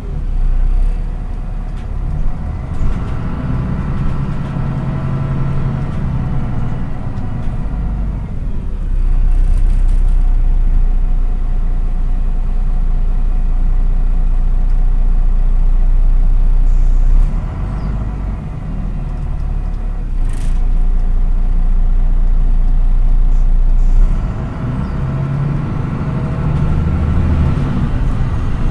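Cabin sound of a MAN NÜ 313 city bus under way: the diesel engine running with steady road rumble. The engine note is strongest for the first few seconds and again near the end, with a heavier low rumble in between.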